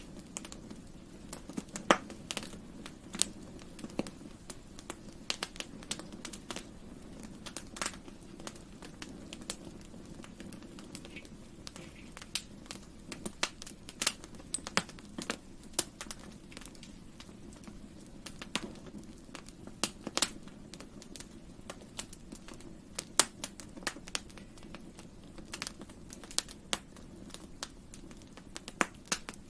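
Campfire crackling: a steady low rush of burning wood with irregular sharp pops and snaps, a few of them loud.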